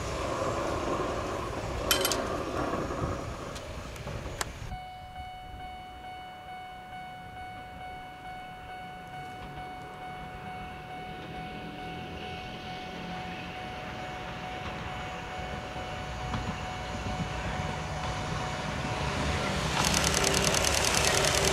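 Eizan Electric Railway 800 series electric train approaching along the track, its running noise rising steadily and turning loud over the last couple of seconds. A steady ringing tone sounds from about four and a half seconds in.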